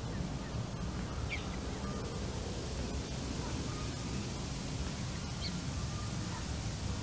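Faint short bird calls, about a second in and again near the end, with a few thin whistled notes, over a steady low outdoor rumble.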